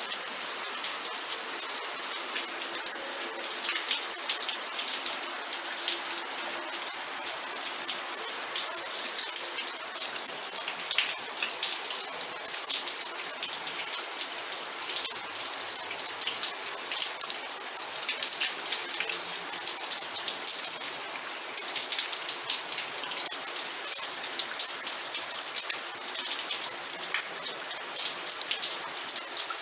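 Steady rain with dense raindrop patter on a hard surface, even and unbroken.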